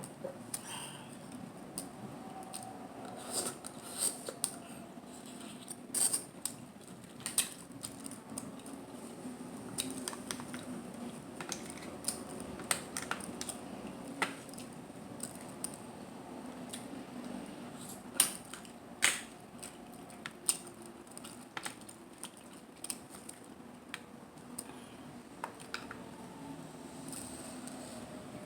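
Close-miked eating of mussels and clams: chewing with irregular sharp wet clicks and smacks, a few a second at times, the loudest near the middle.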